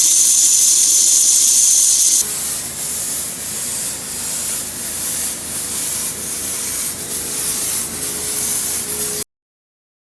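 Pressurised cleaning spray hissing steadily, as used to wash a car air conditioner's evaporator. About two seconds in it cuts to a softer, uneven spray with a faint steady tone, and it stops abruptly near the end.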